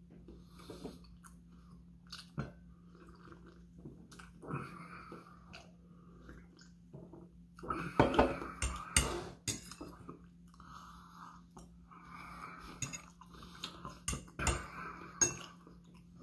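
A person chewing food close to the microphone, with scattered sharp clicks of a fork on a plate. A louder run of knocks and mouth noises comes about halfway through.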